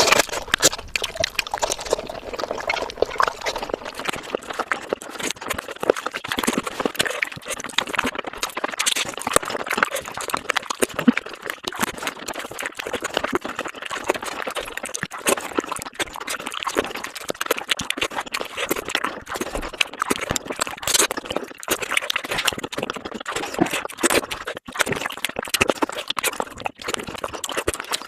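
Close-up wet chewing and lip-smacking of a person eating fish curry with rice: a steady, dense run of moist clicks and smacks.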